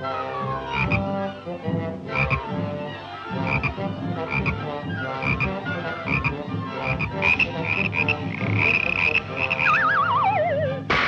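Cartoon orchestral score with low brass playing a bouncing line over regular percussive hits; near the end a wobbling note slides down in pitch.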